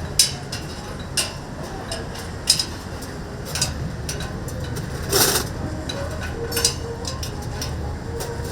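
Kitchen work noise: a steady low hum with irregular sharp clacks and knocks, about one a second, and one longer, louder clatter about five seconds in.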